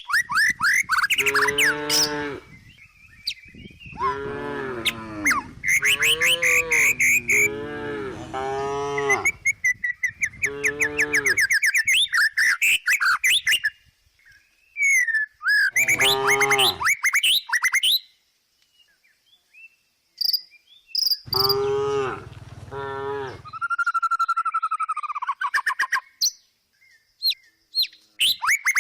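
Cow mooing repeatedly: about five or six drawn-out calls with gaps of a few seconds between them. Birds chirp faintly in the background.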